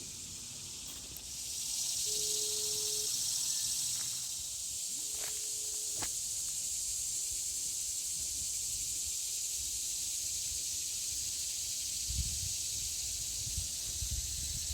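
Insects in a steady, high-pitched droning chorus that swells about a second in and then holds. There are a few low thumps near the end.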